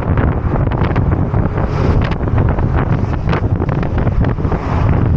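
Wind buffeting the microphone of a moving motor scooter: a loud, constant low rumble broken by quick, irregular gusty flutters.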